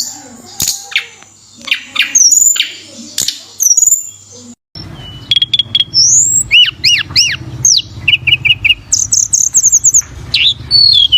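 Tledekan gunung songbird singing: clear whistled rising and arched notes, short repeated phrases, and a quick run of high notes, over a steady low hum. The first half is broken by loud clicks and stops briefly before the song comes in clearly.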